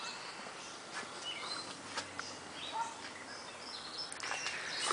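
Faint background hiss with a few short, high bird chirps.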